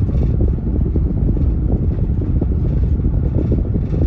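Steady low rumble of a vehicle driving, engine and road noise with some wind on the microphone.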